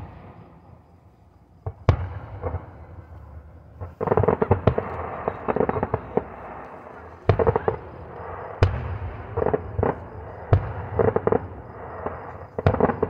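Aerial fireworks shells bursting: about six sharp bangs a second or two apart. From about four seconds in, a continuous busier noise fills in between the bangs.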